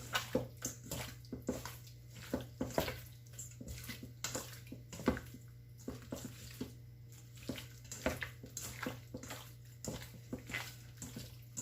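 Hands working seasoning and soy sauce into raw, butterflied chicken breasts: irregular wet squelches and slaps of the meat.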